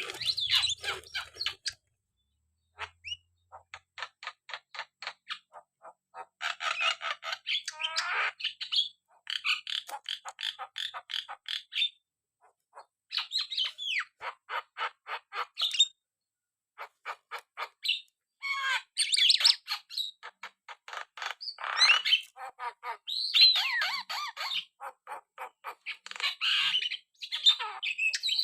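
Javan myna calling actively, in bouts of rapid, evenly spaced clicking notes mixed with harsh squawks and gliding whistles, with short pauses between bouts.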